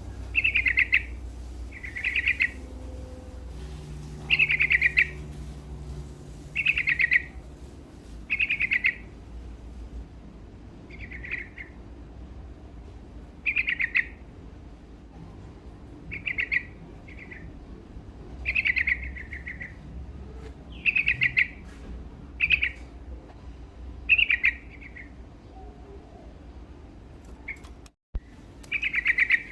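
Yellow-vented bulbul (trucukan) singing: short, loud chirping phrases repeated every one to two seconds, with a brief break in the sound near the end.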